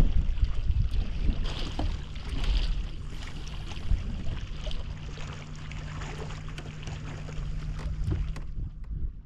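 Wind rumbling on the microphone of a fishing kayak out on the water, with small knocks and clicks and a steady low hum through the middle that stops near the end.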